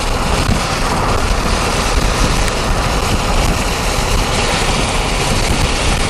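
Heavy rain beating steadily on a moving car, heard from inside the cabin, with the tyres running through water on the road.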